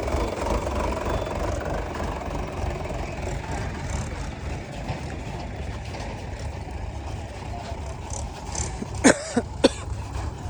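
A diesel engine running steadily at low revs. About nine seconds in, three short, sharp squeals that bend in pitch stand out as the loudest sounds.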